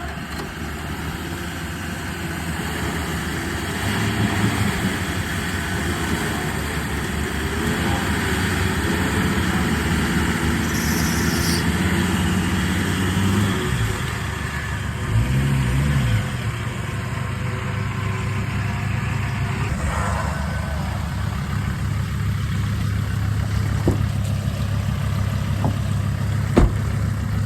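Four-wheel-drive's engine running steadily under load as it is driven out of a deep mud hole, rising and falling in pitch once about halfway through. Two sharp knocks near the end.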